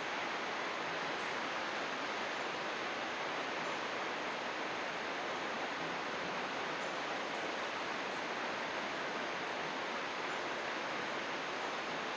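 Flowing water rushing steadily, a continuous even hiss like a river or small waterfall.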